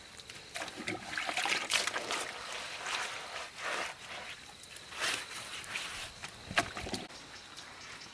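Water trickling and splashing in irregular bursts.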